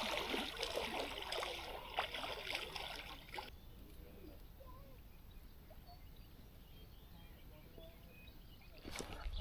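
Water splashing and trickling as a person gets into a creek pool for a swim, cutting off suddenly about three and a half seconds in to a faint, quiet outdoor background.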